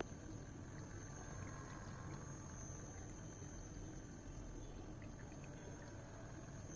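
Homemade tabletop water fountain with water trickling steadily, faint, over a thin steady high tone.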